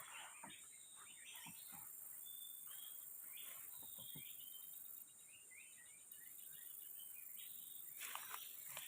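Faint forest ambience: small birds chirping in many short, quick calls over a steady high hiss.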